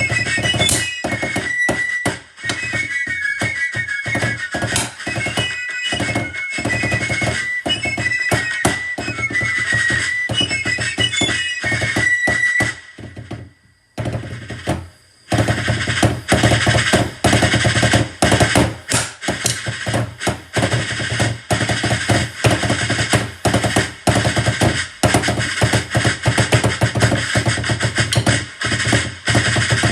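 Drum kit played along to an electronic backing track: a high synthesizer melody over steady drum hits, a brief drop-out about halfway through, then a denser, louder section with fast, busy drumming.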